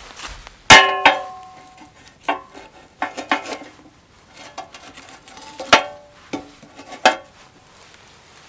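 Metal cookware clanking: a series of sharp knocks with short metallic ringing, the loudest about a second in.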